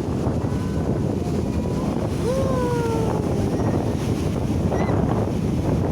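Wind buffeting the microphone over the steady wash of sea surf. About two seconds in, a short voice call glides down in pitch.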